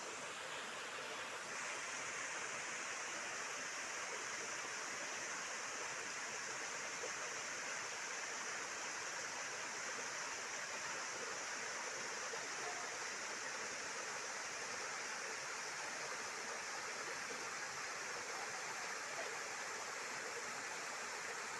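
Waterfall pouring onto rocks, a steady even rushing of falling water.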